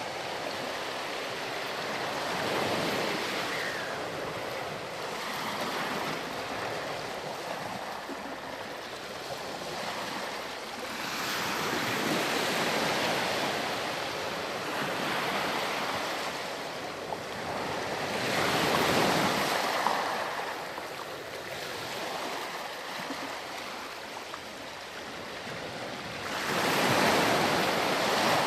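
Surf on a sandy beach: waves breaking and washing in, swelling and fading every several seconds, with the loudest wave near the end.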